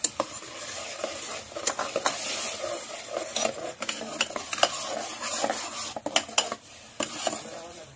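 Tomato and onion paste sizzling in hot ghee in a pressure cooker, while a steel ladle stirs it and clinks against the pan again and again. The sizzle dies down a little near the end.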